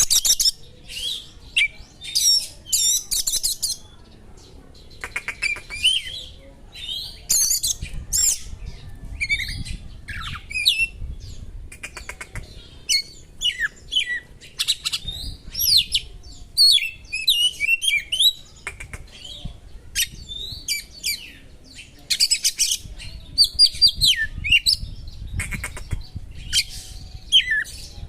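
Oriental magpie-robin (kacer) singing a sharp, varied song of short whistled phrases, sweeps and fast trills with brief pauses between them, its song loaded with small-bird calls.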